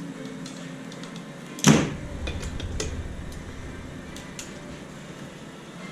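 A single loud bang, like something slammed or knocked, a little under two seconds in, followed by a short low rumble. Light clicks and knocks are scattered around it.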